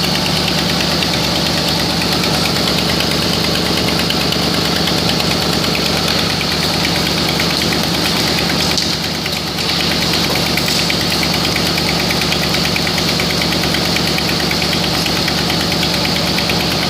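2007 Mercury Mountaineer engine idling steadily in drive, with an exhaust leak puffing at each firing pulse.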